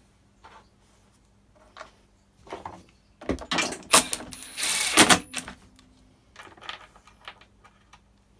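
Clicks, knocks and clatter of plastic housing parts and tools being handled while the blower is put back together, with a louder burst of rattling clatter about three to five seconds in.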